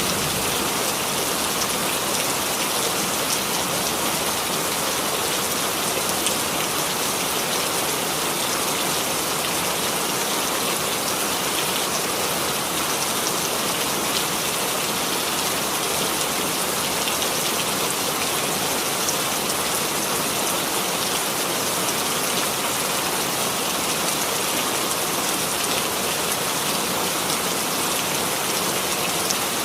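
Steady, even rain falling on a surface, with fine scattered drop ticks, from a recorded rain sound effect.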